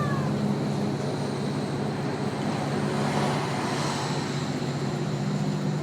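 Truck driving along, heard from inside its cargo box: a steady engine drone with road noise.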